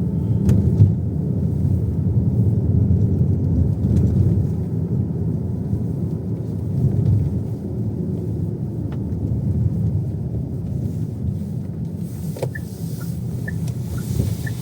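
Steady low rumble of a car heard from inside the cabin, with a few faint knocks. Near the end a turn-signal indicator starts ticking at about two ticks a second.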